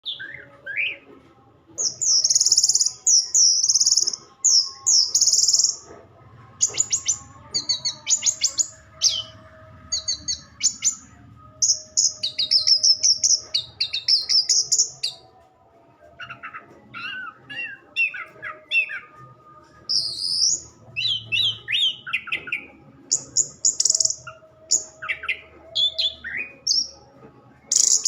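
Orange-headed thrush singing: a long run of varied, quickly changing phrases of high whistles, chirps and rapid trills, with short pauses between phrases.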